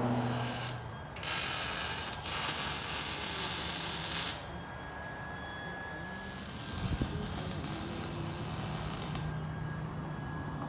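Pneumatic ratchet running in two bursts of about three seconds each, with a hiss of air, after a short burst at the start.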